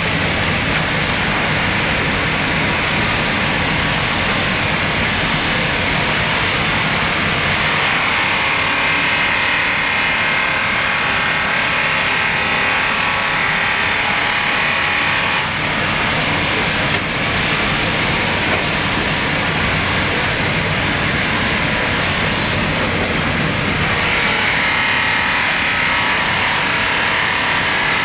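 Kettle outer polishing machine running, its buffing wheels working the outside of kettle bodies: a loud, steady whirring hiss.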